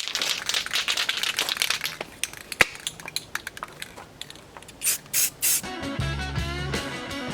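Aerosol can of primer spraying, a long hissing stretch and then three short bursts. Rock music with guitar comes in near the end.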